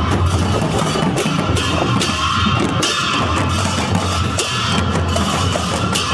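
Music with drums and cymbals playing throughout.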